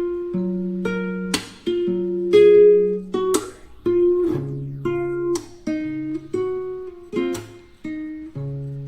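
Background music on strummed acoustic guitar: a chord struck about once a second and left ringing.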